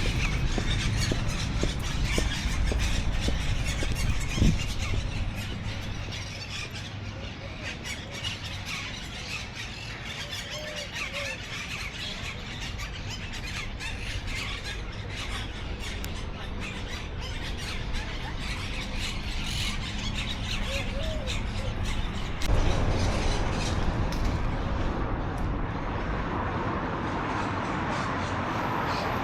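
Birds calling, many short shrill chirps and squawks in quick succession, over a low steady background rumble that grows louder about two-thirds of the way through.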